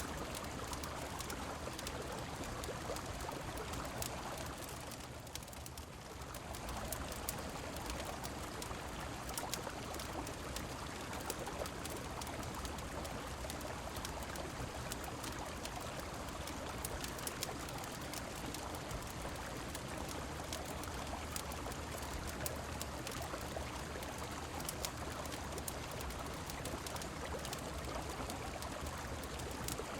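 River water running steadily under falling rain, with a wood fire crackling in frequent short sharp clicks. The water sound softens briefly about five seconds in.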